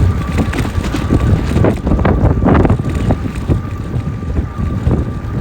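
Riding an e-bike on a rough trail: wind buffeting the microphone over the rumble and knocks of the tyres on the ground, with a thin steady whine from the electric motor.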